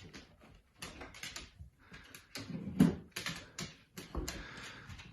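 Irregular knocks, clicks and rattles of a dog opening a refrigerator and pulling out a beer, with one sharper knock about three seconds in.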